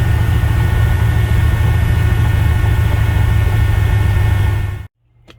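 Pickup truck engine and drivetrain running loud and steady while driving at an even speed. It cuts off abruptly near the end.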